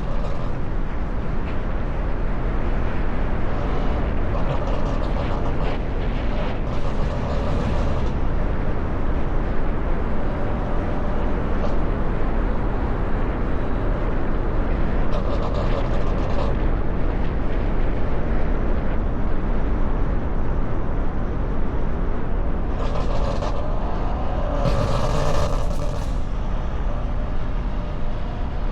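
A car driving, with heavy low wind and road rumble on a camera mounted outside the car, and a few brief louder surges of engine or passing-traffic noise.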